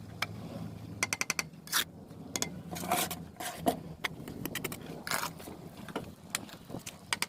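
Bricklaying work: a string of sharp clicks, taps and scrapes of a steel trowel and bricks being worked, with a quick run of about five ticks about a second in.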